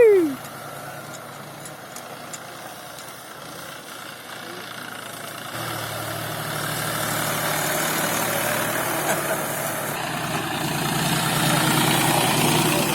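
Tractor engine running steadily, growing louder from about six seconds in. At the very start, the tail of a loud falling tone cuts off.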